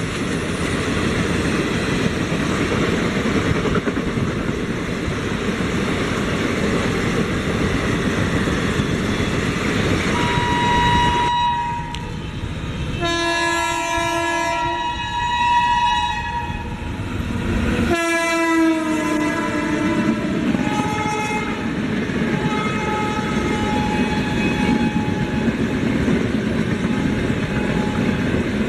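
Train running with a steady rushing rumble. About ten seconds in, a multi-tone train horn sounds and holds for several seconds, then drops slightly in pitch and fades out.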